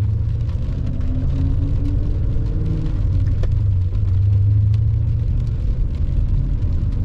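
BMW E39 M5's V8 engine running under way. Its tone climbs in pitch from about one to three seconds in as it picks up revs, then settles back to a steady low drone.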